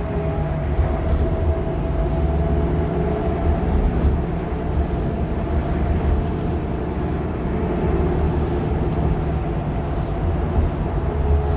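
2015 Nova LFSA hybrid articulated bus with a Cummins ISL9 diesel and Allison H50 EP hybrid drive, running along. It makes a steady low rumble with a few faint steady tones held above it.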